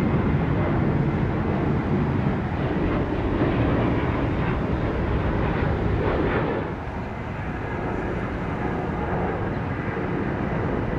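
Jet airliner engines running at high power, a loud, steady rumble that eases a little about two-thirds of the way through and then builds again.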